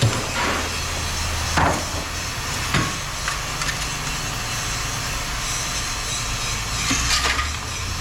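A motor running steadily in the background, with a few sharp knocks of scrap being handled: one right at the start, others about a second and a half and three seconds in, and a longer rattle near the end.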